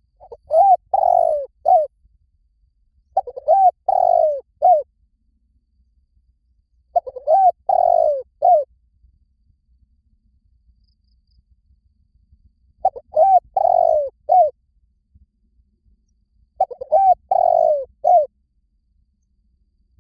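Spotted dove cooing: five separate phrases of three or four notes each, a few seconds apart.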